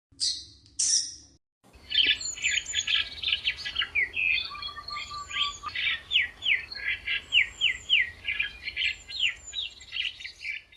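Birds calling: two short harsh squawks, then from about two seconds in a dense, continuous run of rapid, high, falling chirps.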